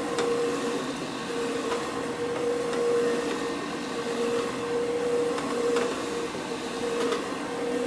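Carpet-cleaning equipment running with a steady motor hum and an even, unchanging tone, with a few faint clicks.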